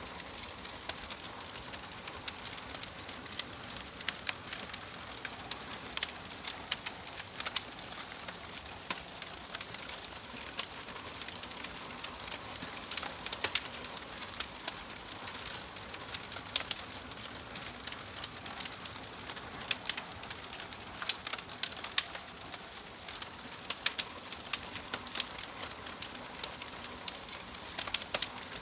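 Wood fire in a fireplace crackling, with a steady hiss and frequent irregular sharp pops and snaps.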